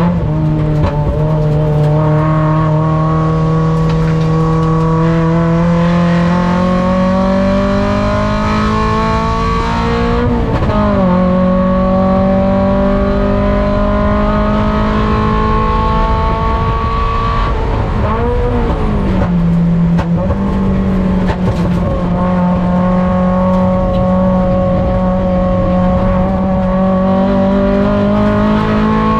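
Mazda Miata race car's four-cylinder engine heard on board under hard acceleration, its pitch climbing slowly and steadily as it pulls. Twice, about ten and about eighteen seconds in, the pitch drops with a brief wavering before it climbs again.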